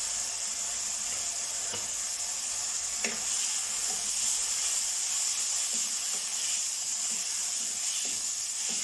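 Cubed chicken sizzling steadily in hot oil in a non-stick wok as a wooden spatula stirs it, with a few light knocks of the spatula against the pan.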